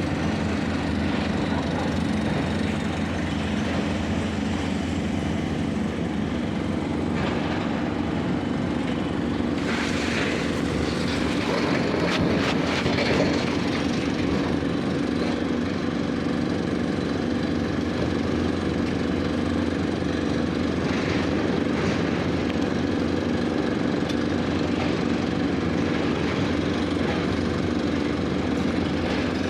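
Heavy vehicle engine running steadily, with a louder stretch of noise and clatter about ten to thirteen seconds in.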